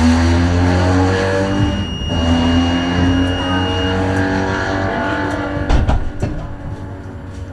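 Tram's electric traction motors whining, the whine falling in pitch as the tram slows. A few sharp knocks come about six seconds in, and the sound then grows quieter.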